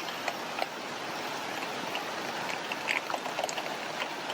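Heavy rain falling through the forest: a steady hiss with many separate drops tapping on large leaves.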